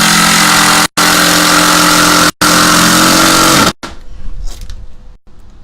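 Power drill running loud and steady in three runs of about a second and a half each, driving a screw to fasten a new window frame.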